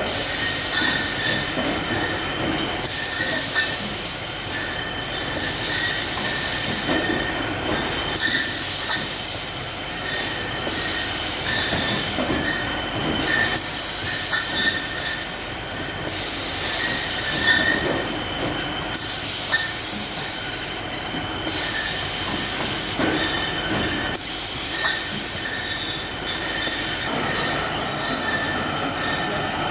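Automatic shrink-wrap packaging machine running, a steady mechanical whine with a high hiss that cuts in and out every one to two seconds as it cycles.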